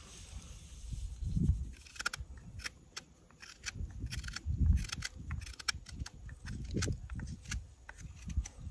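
Knife cutting walnut wood: a string of short, sharp snicks at an irregular pace of a few a second, with low thumps and rumble underneath.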